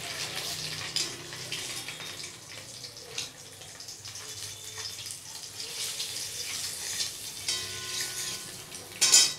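Peeled boiled eggs frying in shallow oil in an aluminium kadai with a steady sizzle, the stage where the white surface is just losing its whiteness. A flat spatula scrapes and taps the pan as it turns the eggs, with one brief louder scrape or clank near the end.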